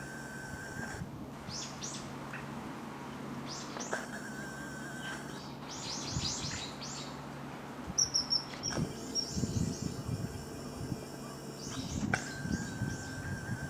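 Wild birds calling in short clusters of high, quick, downward-sliding chirps, with a fast run of thin high notes about eight seconds in. A faint steady high hum comes and goes, and low rumbling from the microphone sets in over the second half.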